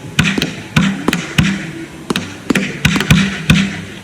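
Consumer fireworks going off in a rapid, uneven series of sharp bangs, about nine in four seconds, each with a short fading tail.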